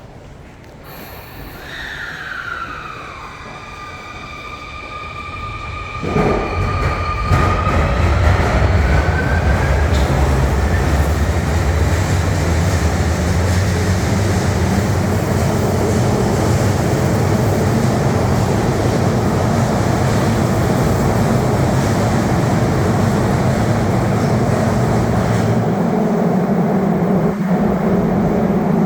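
Sotetsu 21000 series electric train pulling away: the whine of its traction motor inverter starts about a second and a half in, falls in pitch, holds, then rises as it picks up speed. About six seconds in, a loud rumble of the cars and wheels passing close takes over and runs on steadily.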